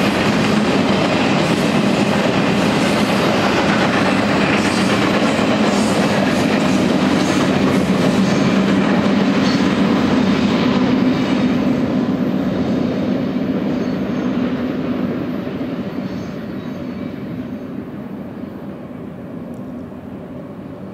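Double-stack intermodal train's loaded well cars rolling past, with a steady rumble and clatter of wheels on rails. After the last car goes by, the sound fades gradually over the final several seconds as the train moves away.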